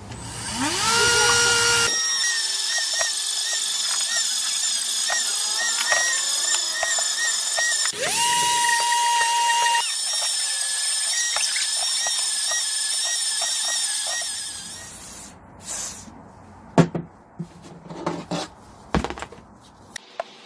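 An electric drill running: the motor spins up with a rising whine, runs steadily, spins up again to a higher pitch about eight seconds in, and stops around fifteen seconds in. A few sharp clicks and knocks follow.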